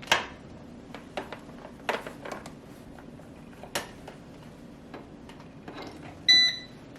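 A few light clicks and knocks of handling, then near the end one short high-pitched electronic beep from the Gourmia air fryer's control board as it powers up when plugged in: the sign that the replaced thermal fuse has restored power and the unit is working again.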